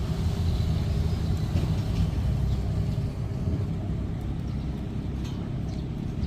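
Boat engine running steadily under way, a low, even rumble.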